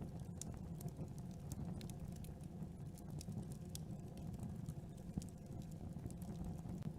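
Campfire burning: a steady low rumble of flames with many irregular sharp crackles and pops.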